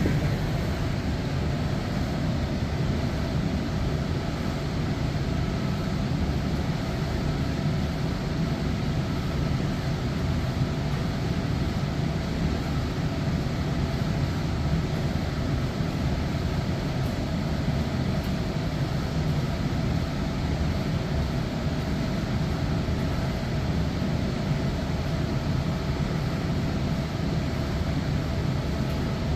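Electrolux Professional TD6-24S commercial tumble dryer running steadily in the last minute of its cycle, a low, even drone of the turning drum and fan.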